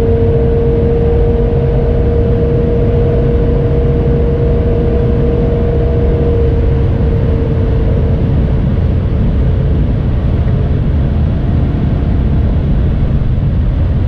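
BMW M850i xDrive's 4.4-litre twin-turbo V8 running at high load near its 250–260 km/h top speed in sixth gear, heard from inside the cabin with heavy wind and tyre roar. A steady whine in the engine note fades out about eight seconds in, leaving mostly the rumble of wind and road.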